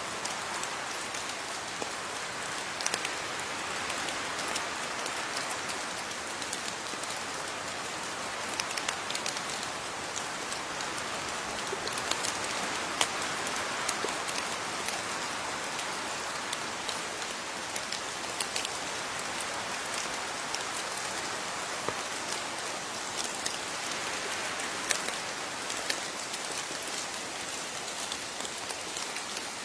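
Steady rain falling, with the sharp taps of individual drops scattered through the even hiss.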